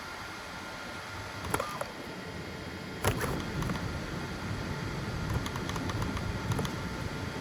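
FDM 3D printer at work: its stepper motors and cooling fan hum steadily, with sharp clicks about a second and a half and three seconds in, then a run of quick ticks from the print head's moves.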